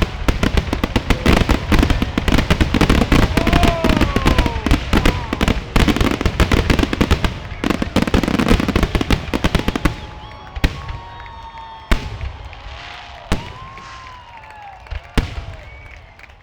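Fireworks finale: a dense barrage of bangs and crackle for about ten seconds, then thinning out to scattered single bangs.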